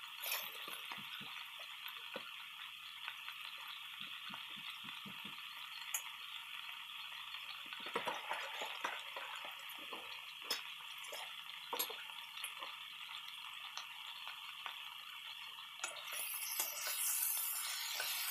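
Alogbate (Malabar spinach) leaves and pork bones sautéing in a wok: a steady sizzle with scattered small pops and crackles. Near the end a metal ladle starts stirring through the leaves and the sound grows louder.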